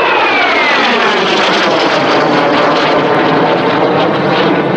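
Aero L-39 Albatros jet making a fast low pass, the whine of its single turbofan falling in pitch as it goes by, then a loud steady rush of engine noise.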